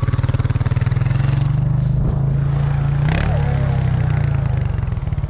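Snowmobile engine running close by, a steady pulsing drone; about three seconds in the note shifts briefly with a short rush of noise.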